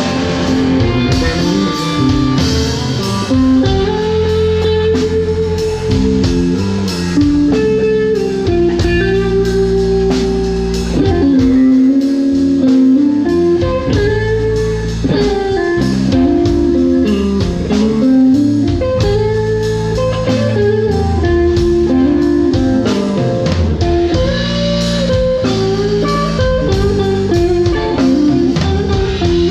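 Band music led by a guitar melody in a bluesy style, over bass and a steady drum beat.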